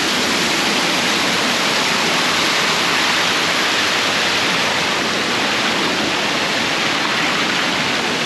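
Waterfall and river cascades rushing, a loud, even, unbroken wash of water.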